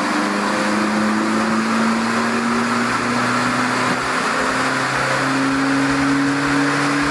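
VW Golf 5 2.0 TDI 170 diesel engine, fitted with a downpipe and with its particulate filter removed, running under load as the car drives. Its drone climbs slowly in pitch, dips briefly around the middle, then rises again.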